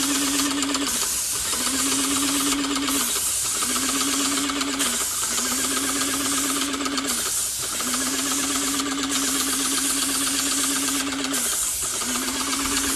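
Airless paint sprayer in use: a continuous hiss of paint spraying from the gun tip, with the sprayer's small pump motor humming in stretches of one to four seconds and cutting out briefly about five times between them.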